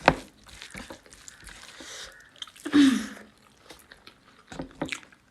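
Close-up chewing and mouth sounds of someone eating a mouthful of pork and rice, with a sharp click at the start and a few more near the end. About three seconds in comes a brief hum, falling in pitch.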